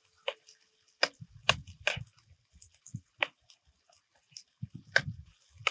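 Close-miked eating: crisp bites and chewing, with a sharp click every half second to second over soft, wet mouth sounds.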